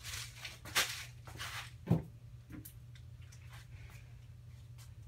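A hand pushing the blades of a Casablanca Panama ceiling fan to help it up to speed on low: a few brushing, rustling sounds and a thump about two seconds in. A steady low hum runs underneath.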